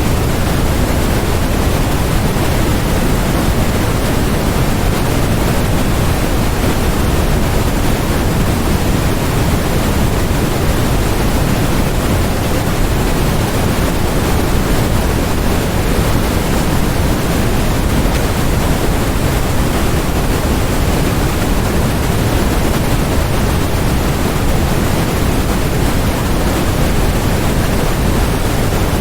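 Continuous synthesized noise of the kind sold as white noise, steady and unchanging, heavier in the low end than the high, so it comes across as a deep, even hiss.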